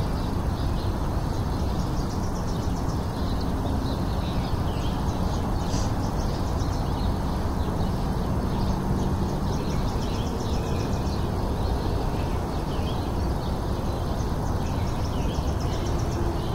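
Birds chirping and trilling over a steady low background rumble.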